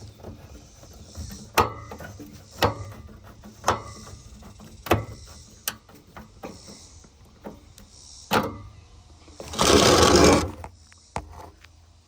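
Sharp knocks and clicks, roughly one a second, from handling a window air conditioner's metal case and its screws while the case is screwed back on. Near the end comes a loud rushing noise about a second long.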